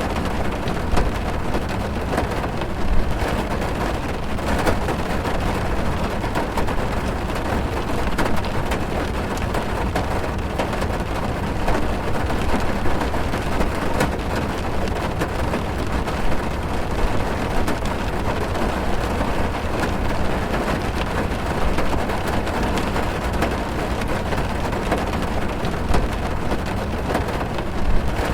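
Heavy rain falling on a car, heard from inside the cabin: a steady hiss with many sharp ticks of single drops hitting the roof and glass.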